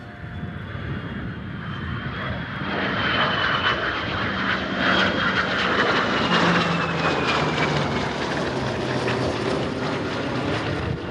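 Heritage-flight fly-by, led by the F-22 Raptor's jet engines: the engine noise builds about two and a half seconds in and is loudest midway. A high whine falls slowly in pitch as the aircraft pass.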